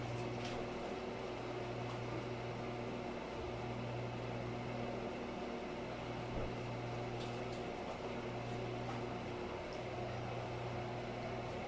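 Steady low hum of a kitchen appliance's fan motor, running evenly with a faint airy hiss.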